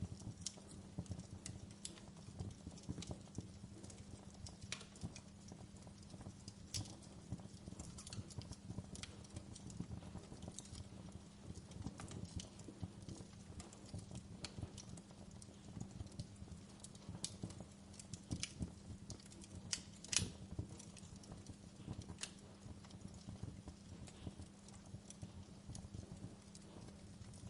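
Wood fire in a fireplace crackling, with irregular sharp pops and snaps from the burning logs over a steady low rumble. One louder pop comes about twenty seconds in.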